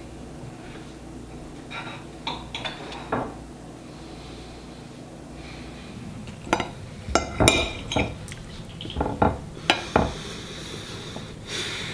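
Dishes and cutlery clinking and knocking: a few light knocks about two seconds in, then a run of sharper clinks with a short ring in the second half, like plates and forks being handled at a table.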